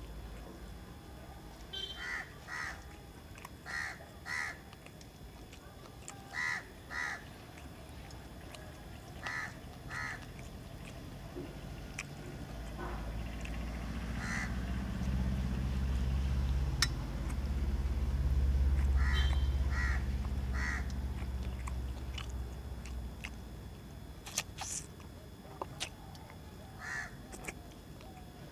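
A bird calling outside in short, harsh calls, mostly in pairs, repeated every few seconds. A low rumble swells and fades in the middle.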